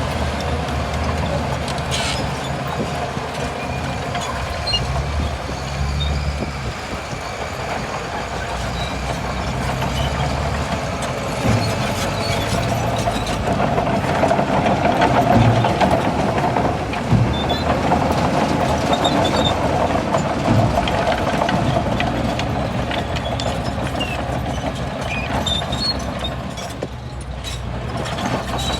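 Bulldozer's diesel engine running steadily while working, with a few sharp knocks.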